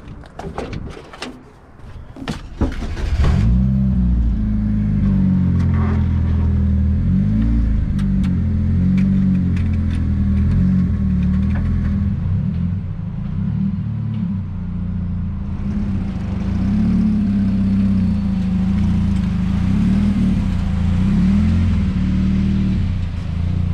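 A few knocks and clicks, then a car engine starts about three seconds in. It runs loud and uneven, its pitch wavering up and down with small revs.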